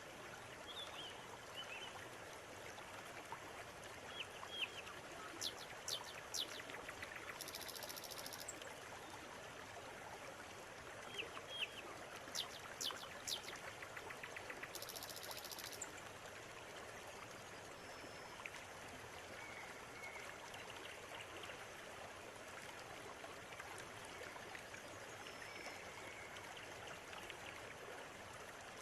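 River water running steadily, with birds calling over it. Two groups of sharp, loud chirps come about five seconds in and again around twelve seconds, each followed by a short high buzzing trill, and fainter calls come later on.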